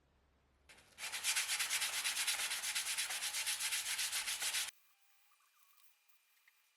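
Hand scrubbing or sanding with an abrasive, in quick back-and-forth strokes about four a second. It starts about a second in, runs for nearly four seconds and stops abruptly.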